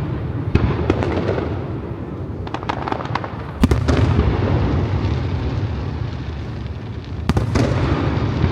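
Aerial fireworks bursting, with sharp bangs over a continuous rolling rumble. A quick run of smaller crackling cracks comes about two and a half seconds in, and the two loudest booms come near the middle and near the end.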